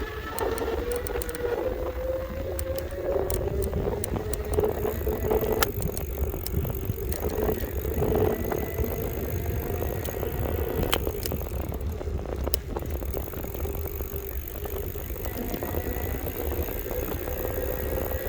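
Electric bike's motor whining on the move, its pitch drifting slowly up and down with speed, over wind and road rumble on the microphone, with scattered clicks and rattles.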